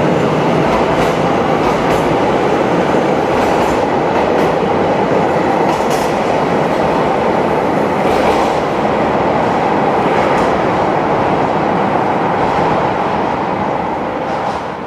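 A train running along the platform: a steady loud rumble of wheels on rails with occasional sharp clicks over rail joints, easing off slightly near the end.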